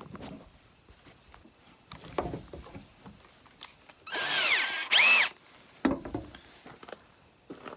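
An electric hand drill is triggered briefly twice in quick succession, about four seconds in. Its motor whines up and back down each time. Scattered knocks and clicks of tools being handled come before and after.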